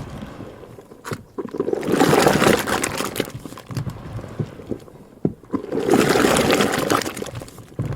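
Butter churn working cream: liquid sloshing that swells and fades about every four seconds, with scattered clicks and knocks of the machine.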